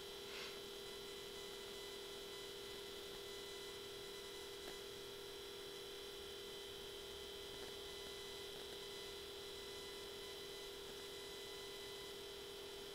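A steady hum made of two held tones, one low and one high, with a couple of faint clicks.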